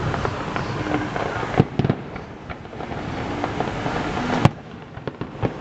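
Fireworks display: dense crackling with scattered bangs, a cluster of them a little under two seconds in and the sharpest, loudest bang about four and a half seconds in.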